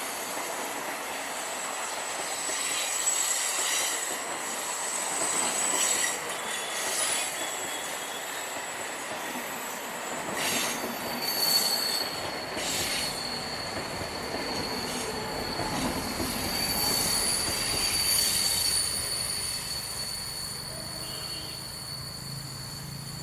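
A long train rolling by on the rails, its wheels squealing in a thin, steady high pitch that shifts lower about halfway through. Clicks from the wheels crossing rail joints come now and then.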